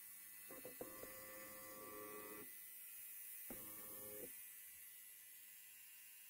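Electric hair clipper buzzing faintly in two bursts, a longer one and then a shorter one, over a steady faint hiss.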